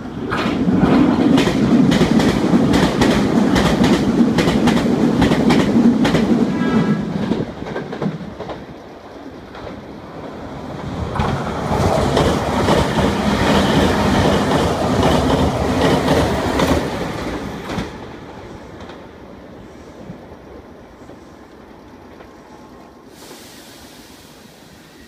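Two Meitetsu express trains, 3500- and 3150-series electric multiple units, pass through the station at speed one after the other, wheels clattering loudly over the rail joints. The first pass lasts about seven seconds; the second starts about eleven seconds in and dies away after about six seconds.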